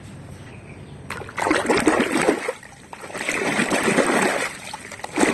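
Water splashing and trickling as a toy truck is washed, in two spells of about a second each after a quieter start.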